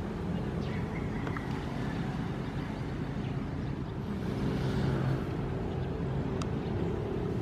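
Ocean waves washing in over a steady low rumble, with one wave surging up about four and a half seconds in.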